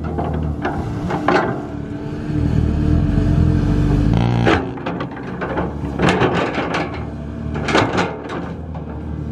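Heavy construction machine's diesel engine running steadily, with repeated sharp metallic knocks and clanks from the working machinery.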